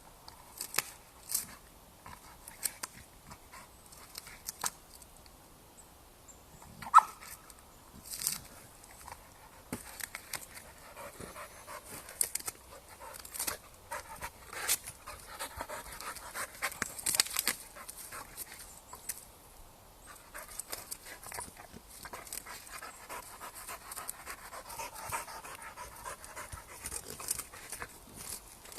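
Dog panting, with many scattered clicks and rustles and one brief, sharp squeak about seven seconds in.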